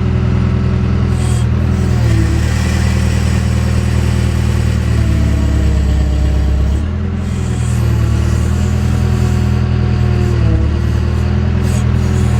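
JCB backhoe's diesel engine running steadily, its note dipping briefly about three times as it takes load.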